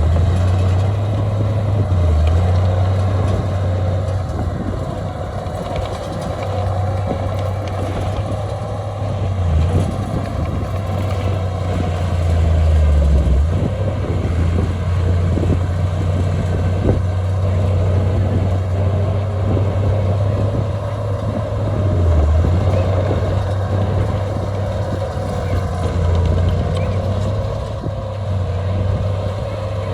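Heavy earthmoving machine's diesel engine running with a steady low drone, dipping briefly a few times.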